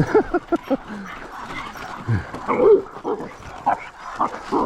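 A dog barking and yipping in short, excited bursts, a quick run of calls at the start and then scattered barks, as it reacts at the sight of other dogs.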